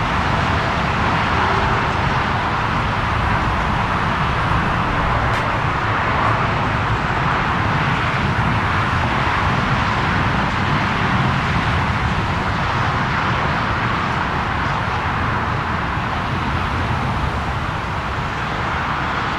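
Jet engines of a Lufthansa Airbus A340-300 running, a steady roar with a low rumble that eases off slightly near the end.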